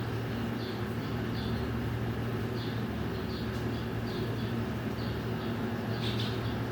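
Small birds chirping: short high chirps repeated about twice a second, often in pairs, over a steady low hum.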